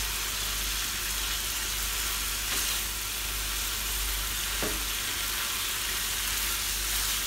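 Tempe strips simmering in chili and sweet soy sauce in a frying pan, sizzling steadily as a spatula stirs and tosses them. There are two light knocks of the spatula against the pan, near the middle.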